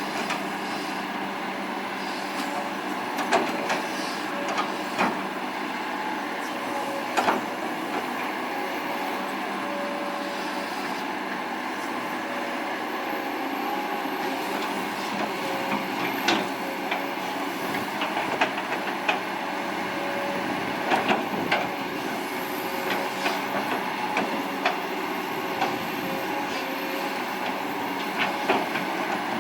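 Kobelco SK200-8 hydraulic excavator running steadily while working, with a wavering whine. Sharp metal clanks and knocks come now and then, more often in the second half.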